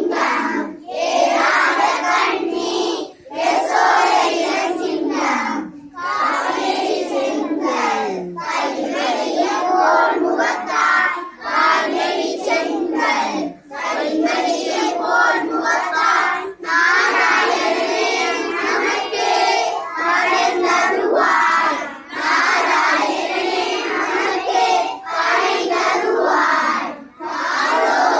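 A group of young children singing together in unison, in phrases of a few seconds each broken by short pauses for breath.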